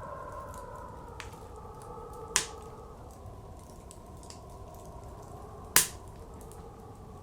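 Wood fire crackling with scattered small pops and two loud sharp pops, about two and a half and six seconds in. Behind it, blizzard wind blows steadily with a slowly wavering hollow tone.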